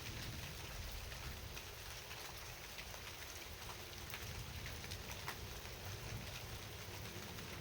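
Steady rain falling, with many separate drops ticking at irregular moments over a low, even rumble.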